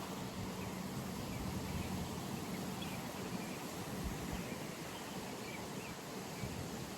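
Outdoor pond ambience: a steady even hiss with a low hum that fades out about two seconds in, and faint high chirps scattered through the middle.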